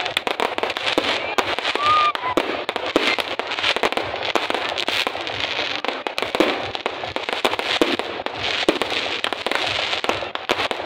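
Fireworks going off in a dense, rapid string of bangs and crackles.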